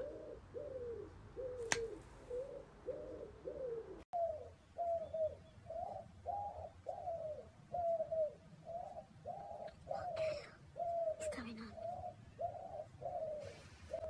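Pigeon-like cooing: short hollow notes repeated over and over, about two a second, which is taken for a bird trapped in the loft.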